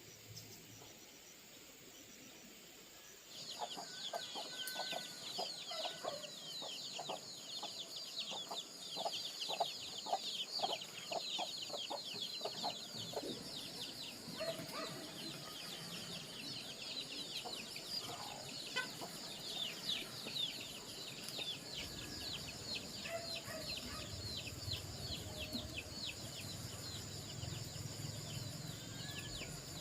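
Chickens clucking over a dense chorus of high, rapidly repeated falling chirps, which start about three seconds in after a quiet opening. A low hum comes in about two-thirds of the way through.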